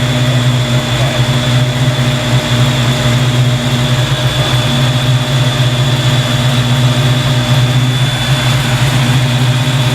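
Fox Body Mustang's engine idling, with its dual electric radiator fans running together in a steady, even hum.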